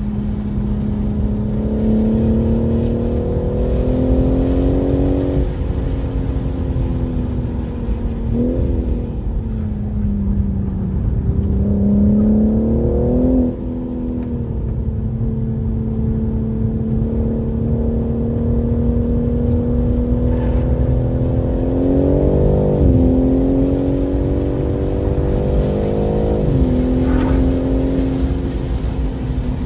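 BMW M3 Competition's twin-turbo inline-six at speed on a race track, its pitch climbing and falling with the throttle. Four quick changes in pitch mark gear shifts.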